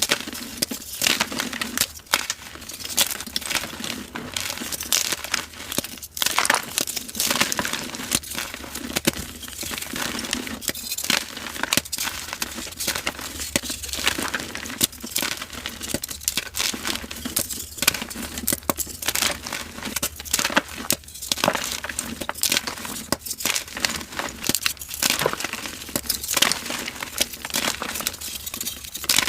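Dyed gym chalk crumbling and crushing in the hands: a steady stream of dry, crisp crunches and crackles as the blocks break apart into powder.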